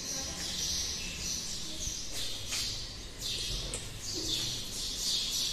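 Small birds chirping, with short high chirps repeating irregularly about once or twice a second.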